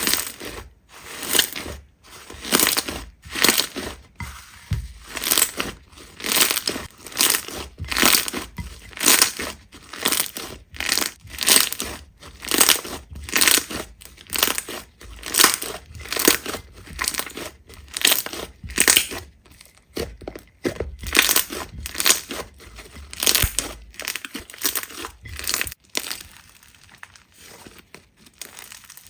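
Slime being squeezed and pressed by hand, crackling in repeated short bursts about once a second, growing sparser near the end.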